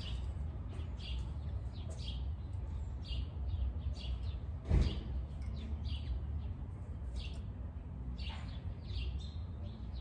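Small birds chirping in short repeated calls over a steady low rumble, with a single thump about halfway through.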